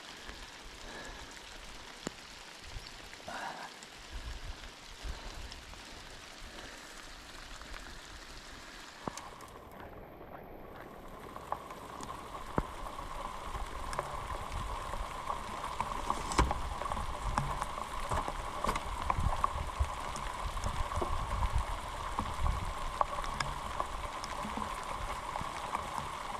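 Light rain pattering on the boat and the lake, with scattered sharp drop ticks. About a third of the way in, a steady mid-pitched hum joins along with some low rumble, and the sound grows louder.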